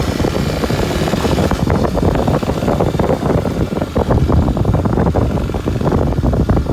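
Kawasaki Super Sherpa's 250 cc single-cylinder engine running as the motorcycle is ridden, a rapid, uneven pulsing with no let-up.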